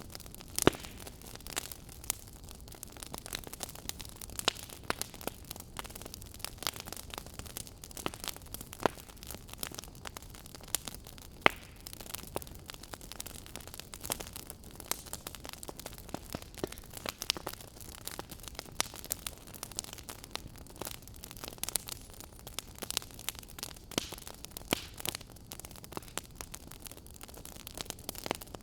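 Fire crackling in a fireplace: a low steady hiss with frequent small snaps and pops, two sharp loud pops standing out, one just under a second in and one about eleven and a half seconds in.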